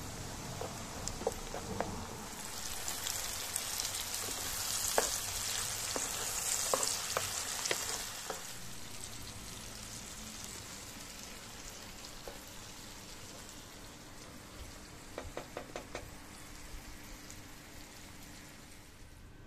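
Onions and vegetables frying in hot oil in a pan, a steady sizzle, with clicks and taps of a spoon stirring against the pan. The sizzle is loudest in the first half and then quieter.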